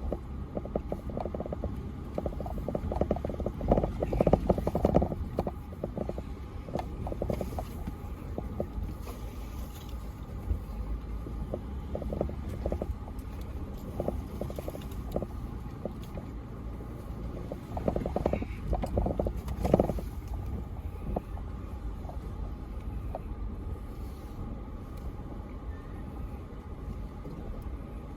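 Toyota 4Runner TRD Pro crawling slowly over loose rock, its engine giving a steady low rumble. Frequent knocks and crunches of rock come from under the tyres and chassis, heaviest about four seconds in and again near twenty seconds.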